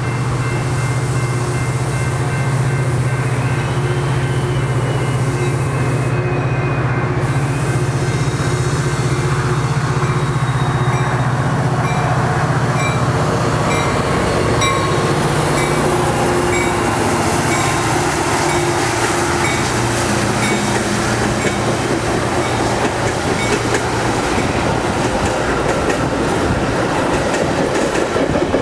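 Diesel-hauled commuter train overtaking on the adjacent track: a steady low locomotive drone in the first half gives way to the rumble and clickety-clack of bilevel passenger cars rolling past near the end.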